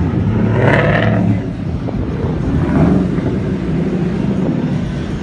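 Ford Mustang engines running as cars move along, with two louder swells of engine and exhaust noise, about a second in and again near three seconds.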